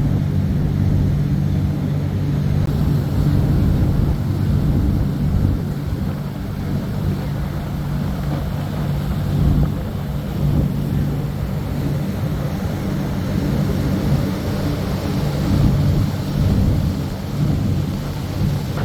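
Tour boat's engine running steadily with a low, even drone.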